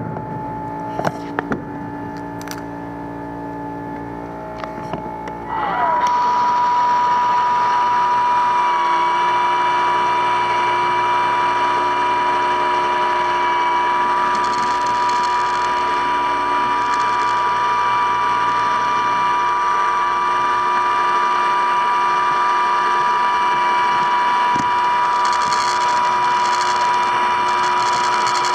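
A motor-driven machine starts about five seconds in and runs steadily with a loud, high, even whine.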